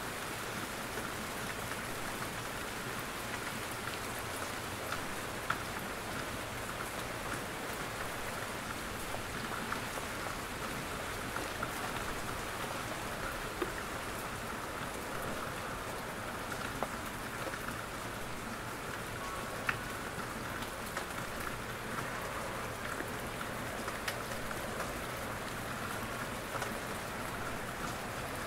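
Steady rain falling in a forest: an even hiss of rainfall with scattered sharp ticks of single drops falling from the trees.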